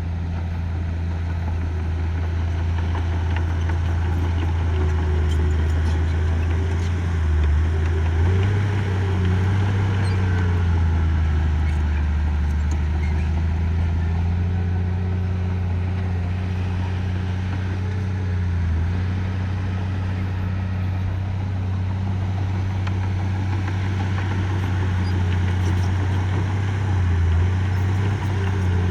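Heavy earthmoving machine's diesel engine working, running steadily with its pitch rising about eight seconds in and dipping briefly a few times as the load changes.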